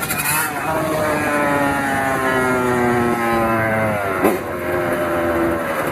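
Kawasaki KX100 two-stroke single-cylinder dirt bike engine running at steady high revs, its pitch sagging slowly for a few seconds. There is a quick blip of the throttle about four seconds in, then it holds steady again.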